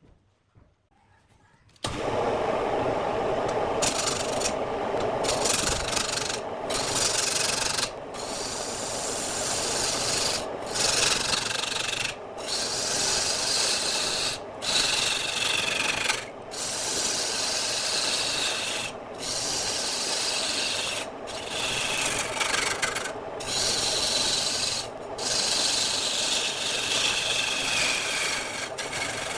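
Turning tool scraping and cutting into spinning wood on a lathe. It starts about two seconds in and is broken by short pauses roughly every two seconds.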